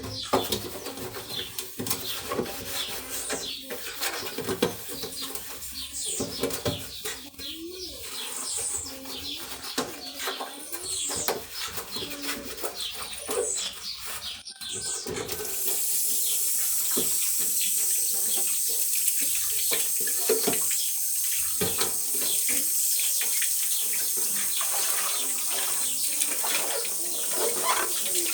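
Irregular clattering and knocking of things being handled, with birds chirping in the background; about halfway through a tap is turned on and water runs steadily from it.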